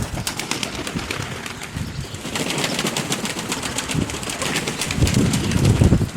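Domestic pigeons at close range, cooing and flapping. A quick patter of clicks starts about two seconds in, and low gusty rumbles near the end.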